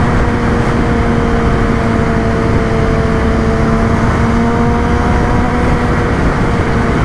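Kawasaki ZX-10R inline-four sport bike engine running at nearly steady revs while riding, with a steady rush of wind and road noise beneath the engine note.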